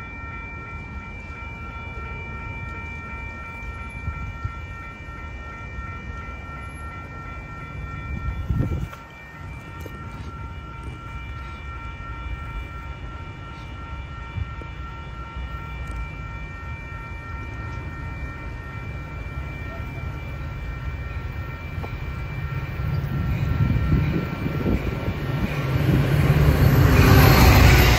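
Train at a station: a low rumble with several steady high-pitched whining tones, then a train drawing near, growing much louder over the last few seconds.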